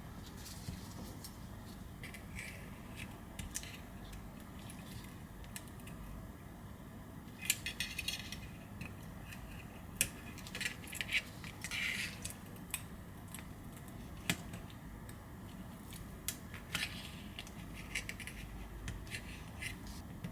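Small repair tools clicking and scraping against an iPhone 11's frame and flex cables as the charging-port and microphone cables are pried loose: scattered light taps, with short bursts of scraping about a third of the way in and again just past halfway.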